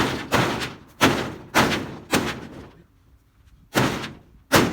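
Corrugated tin roofing being torn down and handled: a run of about seven loud, irregular metal crashes and bangs, each trailing off over about half a second, with a gap in the middle.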